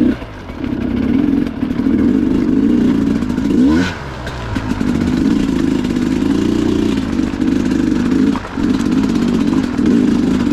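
Two-stroke Sherco dirt bike engine under way off-road, running hard with the throttle opening and closing. The engine note dips and sweeps about four seconds in and dips again briefly near the end.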